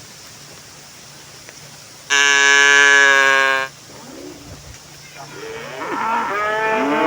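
Cattle mooing: one loud, steady moo about two seconds in, lasting a second and a half. More wavering moos that rise and fall in pitch follow from about four seconds on.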